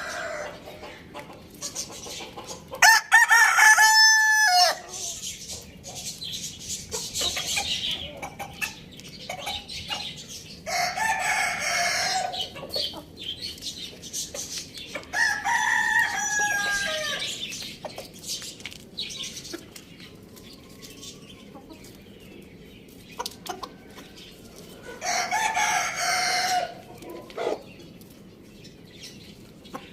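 Chickens: a rooster crows loudly about three seconds in, then shorter calls and clucking come in several separate bouts, with scattered small clicks between them.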